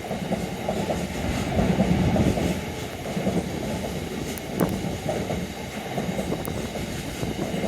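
Freight train hauled by a Class 66 diesel locomotive running through a station, with an uneven rumble and clatter of wheels on the track.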